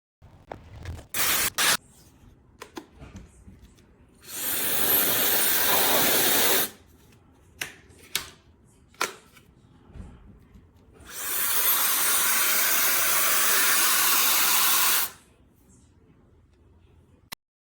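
CNMSGM high-speed ionic hair dryer switched on twice, blowing a loud, even rush of air for about two seconds and then about four seconds, each time cutting off sharply. Short clicks of handling come before and between the runs.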